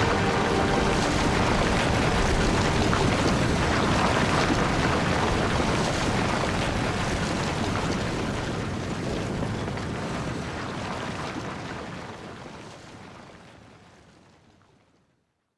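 Steady rushing noise that fades out to silence over the last few seconds.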